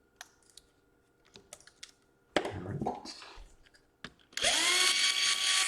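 A few small clicks and a brief clatter of handling, then near the end an electric screwdriver motor runs at a steady pitch for about a second and a half while backing out a laptop case screw.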